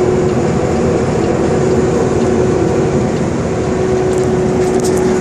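Dump truck driving along, heard from inside the cab: a steady run of engine and road noise with a constant humming tone through it.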